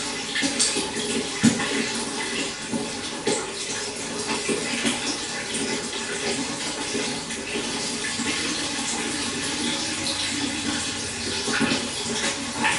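Pond water trickling and splashing steadily, with many small irregular splashes and a sharper one about a second and a half in.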